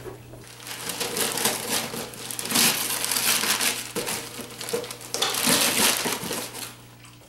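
Paper packaging crinkling and rustling in irregular bursts as a gift box is opened and unwrapped.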